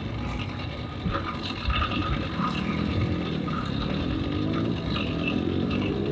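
A motor vehicle engine running, its pitch rising steadily over the last few seconds, over a constant low rumble.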